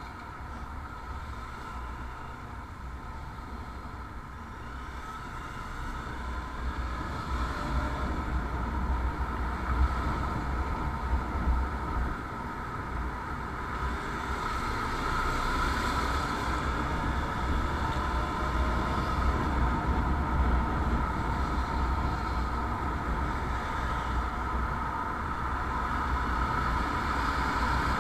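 Riding a motorcycle: steady engine and road noise with wind rumbling on the microphone, growing slowly louder.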